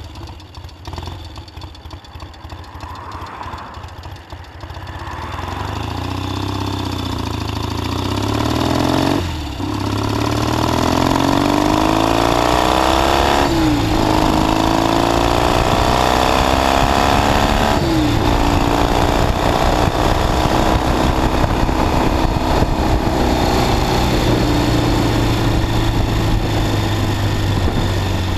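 1969 Triumph T120 Bonneville's 650 cc parallel-twin engine pulling away from a junction and accelerating through the gears. The pitch climbs, drops sharply at three upshifts about 9, 13 and 18 seconds in, then settles into a steady cruise.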